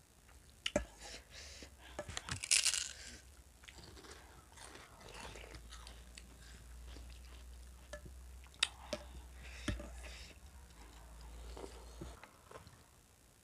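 Close-miked chewing and crunching of crispy fried snacks eaten with potato curry, with sharp clicks scattered through it. The crunching is loudest about two and a half seconds in.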